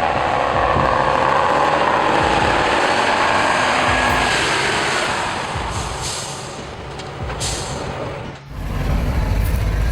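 Heavy off-road truck running, with a loud rushing, hissing noise that fades out over the middle seconds. Near the end the sound cuts abruptly to a deeper, steady engine rumble.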